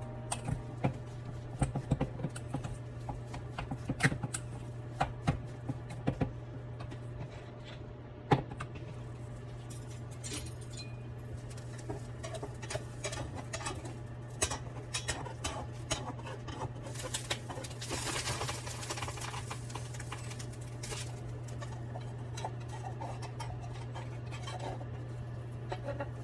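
Light kitchen handling sounds: scattered clicks and taps of utensils and dishes over a steady low hum, with one sharper knock about eight seconds in and a stretch of rustling a little past the middle.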